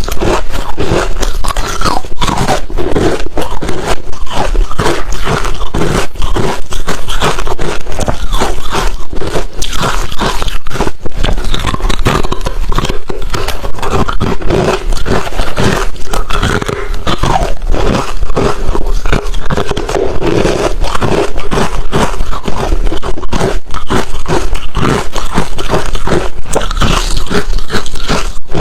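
Close-miked crunching of refrozen crushed ice being bitten and chewed: a dense, continuous run of loud crackling crunches.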